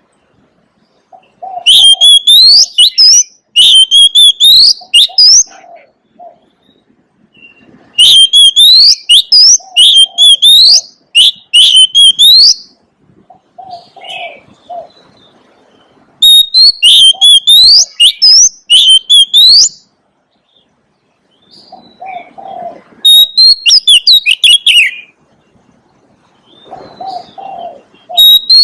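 Oriental magpie-robin singing: loud bouts of quick, rising and sweeping whistled notes, each bout lasting three to four seconds, repeated about five times with pauses between. Softer, lower notes are heard in the gaps.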